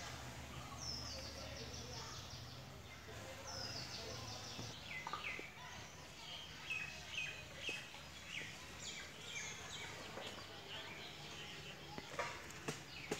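Birds calling outdoors: a few quick, stepwise falling chirps, then many short repeated chirps, over a steady background hum. A few sharp knocks near the end.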